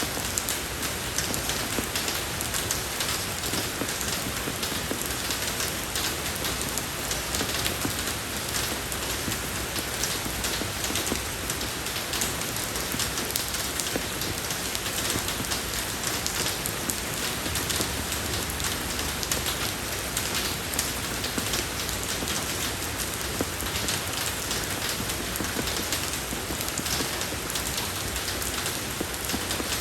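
Steady rain falling on a road, a dense patter of drops on pavement.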